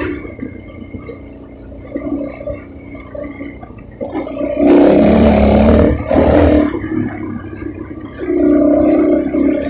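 Wind buffeting the microphone while riding a bicycle, rising to a loud rush for about two seconds midway, with quieter rustling before and after.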